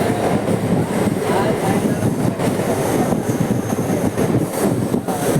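Mumbai suburban local train running, a steady loud rumble of the coaches and wheels on the track, with a faint thin high squeal partway through.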